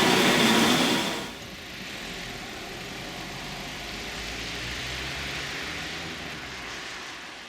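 Busy hall noise that cuts off about a second in, then a quieter steady low hum with a light hiss that fades out near the end.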